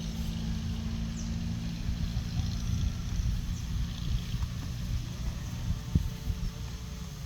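A steady low engine rumble with a held hum that fades after the first few seconds, over some wind noise.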